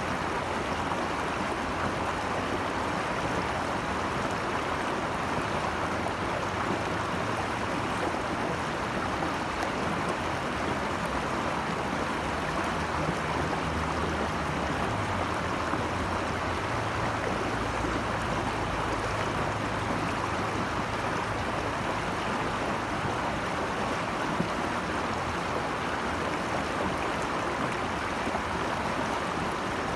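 Steady rush of flowing water, like a mountain stream or small cascade, running evenly with no breaks.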